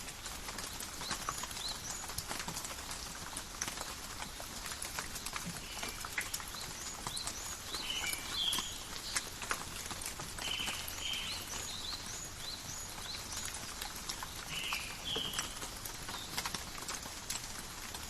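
Steady light rain falling in a forest, a soft hiss with many scattered drips ticking on leaves. A bird calls over it with short chirps and a two-part call that comes back every few seconds.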